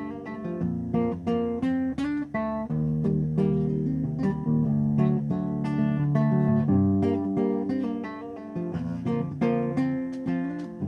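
Instrumental music led by an acoustic guitar, strummed and picked chords changing about every half second with a bass line underneath.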